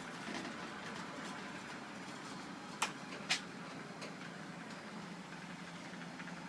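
Sommer electric garage door opener running steadily as it drives a canopy door through a bow arm converter. Two sharp clicks about half a second apart come from the mechanism partway through.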